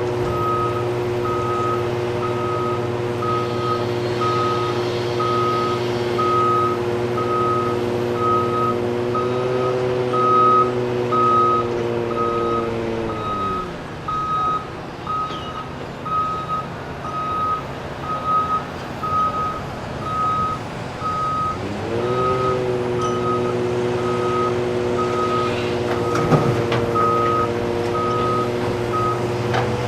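Backup alarm on heavy earthmoving equipment beeping steadily about once a second, over a diesel engine that drops toward idle about halfway through and revs back up a few seconds later. A single sharp clank comes near the end.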